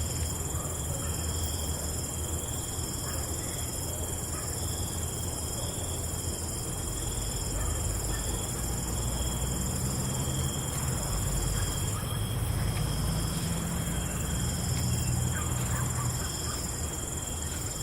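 Night insects, crickets among them, chirping in several steady high-pitched trills, some pulsing evenly, over a constant hiss and a low rumble that swells in the middle.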